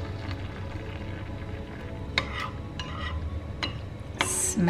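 Instant matcha latte being stirred into hot water in a cup, with a few light clinks against the cup about two to three and a half seconds in. A short loud breathy noise comes near the end.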